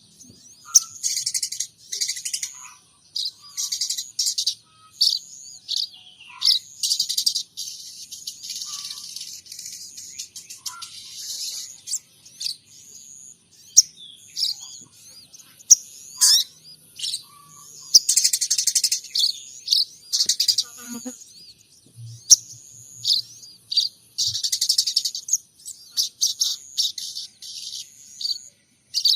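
Sogon trotol songbird singing in repeated bursts of high, fast chirps and trills with short pauses between them. Its song carries imitated calls of munias and tree sparrows.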